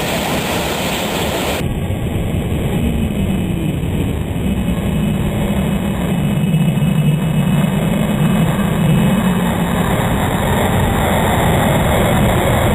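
Military jet aircraft passing overhead: loud, steady jet engine noise. A low hum in it climbs about three seconds in, then holds until about ten seconds.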